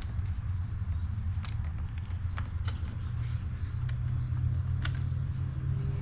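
Scattered small clicks and taps of generator parts being handled and fitted back together by hand, over a steady low hum.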